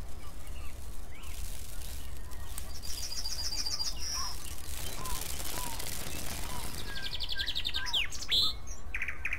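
Wild birds chirping and calling, with several rapid high trills, over a low steady rumble.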